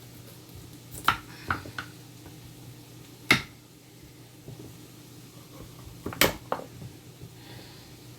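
Kitchen handling sounds: a scatter of separate knocks and clinks as dishes and utensils are moved and set down, the loudest about three seconds in, over a faint steady low hum.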